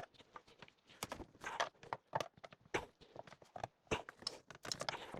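Scattered light clicks and knocks, irregular and close together, from tools and parts being handled during work in a car's engine bay.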